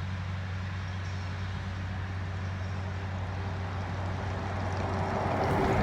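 Diesel genset locomotive engines running with a steady low hum. A rushing noise swells in near the end.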